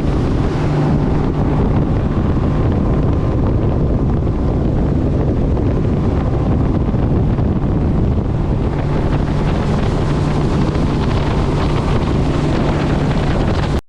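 Motorboat engine running steadily at speed, a constant low hum under heavy wind buffeting on the microphone.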